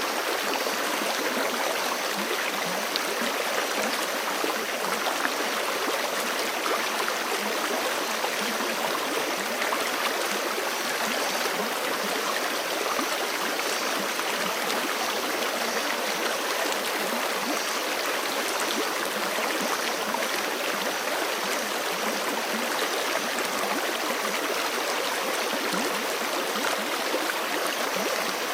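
Forest creek running over rocks: a steady, unbroken rush and babble of flowing water.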